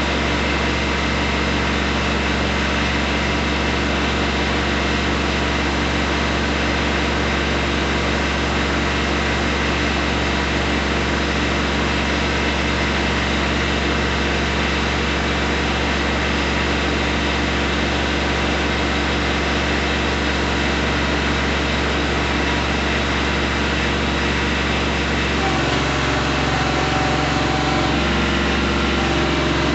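Kubota B2320 tractor's three-cylinder diesel engine running steadily, its note shifting twice near the end.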